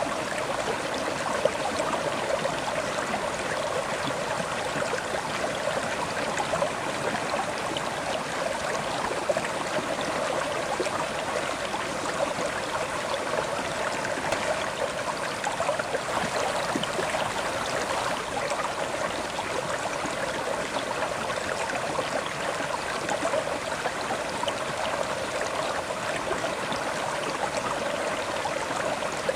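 River water flowing over rocks: a steady rushing burble with fine splashing, even throughout.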